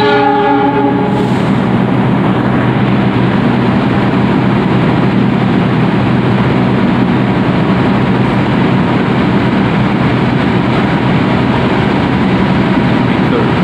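Diesel-hauled passenger train approaching along the platform. It opens with a short horn blast about a second long, followed by a steady diesel rumble with hum and rail noise.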